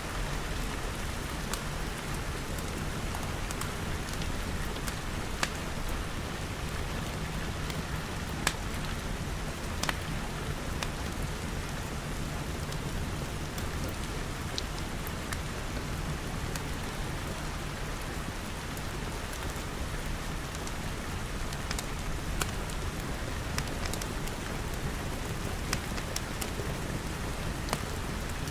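Steady rain pattering on glass walls and roof, with scattered sharp pops from a crackling fireplace fire.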